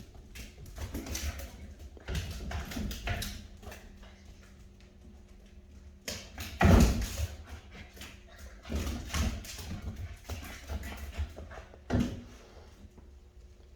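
Rottweiler puppies playing on the floor: irregular scuffling and tapping of paws and claws, with a louder thump about seven seconds in and another near the end.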